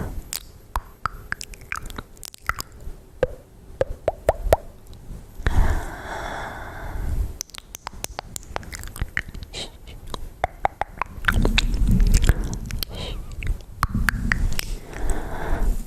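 Close-miked ASMR mouth sounds: many quick wet clicks and smacks, with two longer stretches of soft rushing sound, one near the middle and one through the last few seconds.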